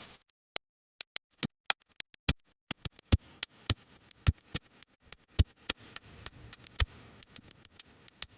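A series of sharp, irregular clicks and taps, a few a second, over a faint hiss that comes in about three seconds in.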